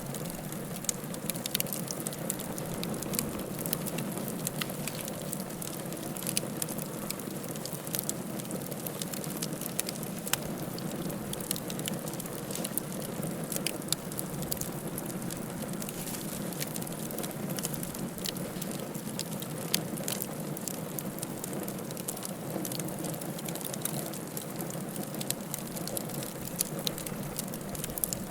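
Wood fire crackling in a fireplace: a steady low rush of flames with frequent sharp pops and snaps at irregular times.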